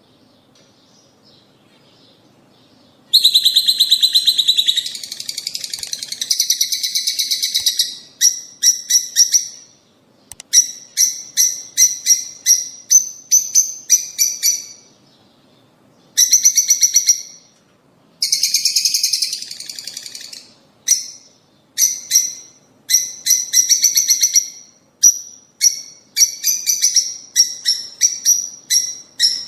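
Lovebirds chattering: rapid, shrill, high-pitched chirps in bursts of a second or two, faint at first and loud from about three seconds in.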